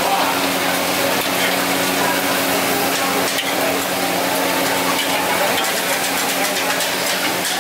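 Fried noodles sizzling in a hot wok as they are tossed and stirred, with the metal spatula and tongs scraping and clicking against the wok, over a steady low hum.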